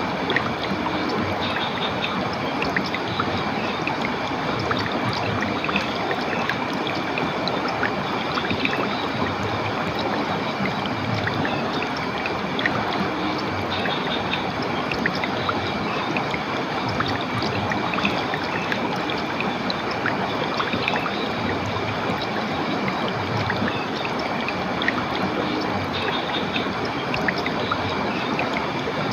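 Water of a stream or small waterfall flowing in a steady, even rush, with faint high chirping notes coming and going over it.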